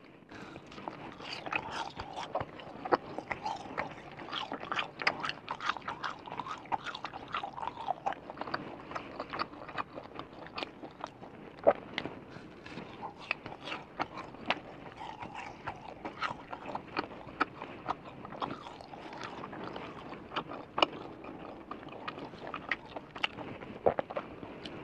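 Close-up eating sounds of a person biting and chewing chewy, spicy Chinese snack pieces off a skewer. Wet mouth clicks and smacks come at an uneven pace.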